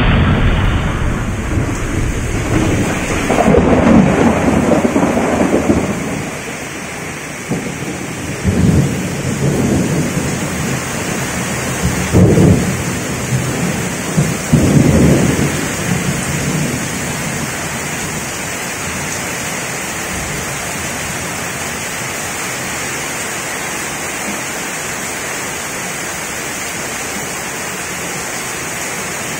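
Heavy rain pouring steadily during a thunderstorm. Thunder rumbles loudly at the start, and several shorter rumbles swell and fade through the first half before the rain carries on alone.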